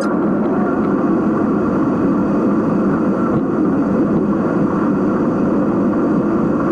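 Steady rushing noise inside a car driving in heavy rain. It starts and cuts off suddenly.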